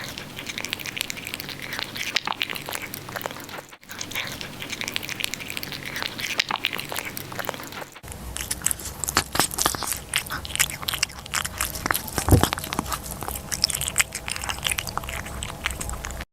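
A cat chewing and crunching food: dense, irregular short crunches and crackles with no meowing. The sound shifts at breaks about 4 and 8 seconds in, and a low hum runs under the last part.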